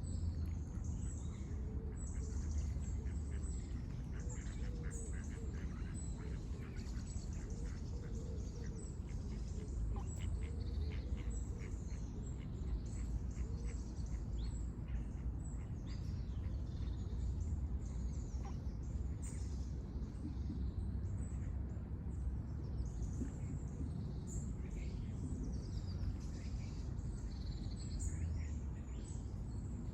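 Ducks quacking, mostly in the first half, with small birds chirping throughout over a steady low background rumble.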